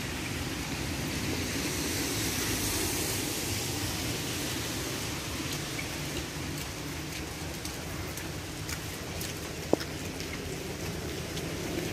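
Steady hiss of rain falling on a wet, flooded road, with a few faint ticks and one sharp knock near the end.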